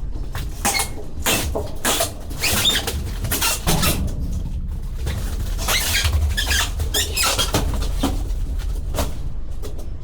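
Boxed refrigerators being handled and slid inside a shipping container: a quick run of scrapes, squeaks and knocks over a steady low rumble.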